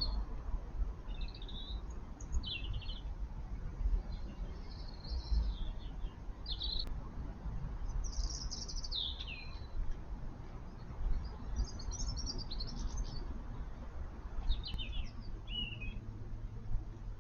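Garden birds calling at intervals: short chirps, rattly trills and a falling whistle about eight seconds in, over a steady low rumble.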